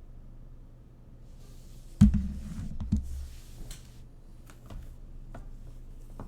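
A sudden heavy thump about two seconds in, followed by a low rumble of about a second, then a few light knocks, over a steady low hum.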